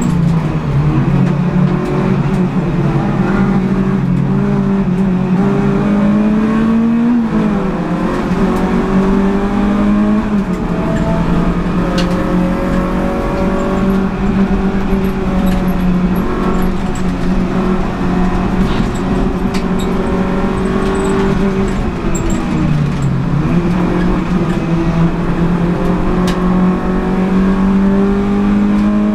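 Renault Clio Sport 182's 2.0-litre four-cylinder engine at racing revs, heard from inside the stripped-out race car's cabin. Its pitch climbs steadily and drops back sharply about seven, ten and twenty-two seconds in, as gears are changed and the throttle is lifted.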